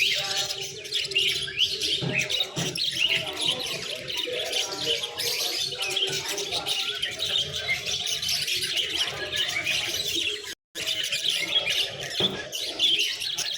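Many small birds chirping and twittering together, their calls overlapping without pause; the sound cuts out for a moment a little past ten seconds in.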